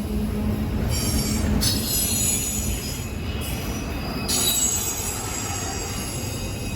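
A train running past with its wheels squealing on the rails: high-pitched squeals that come and go over a steady low rumble.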